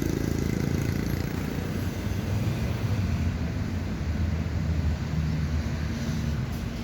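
An engine running steadily with a low drone, over a general background of noise.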